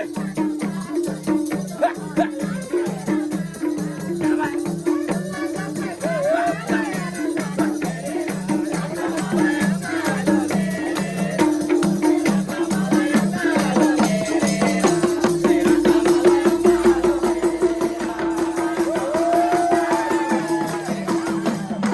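Nepali dohori folk band playing instrumental music with a quick, even pulsing beat, which gives way about two-thirds of the way in to a held note under the melody.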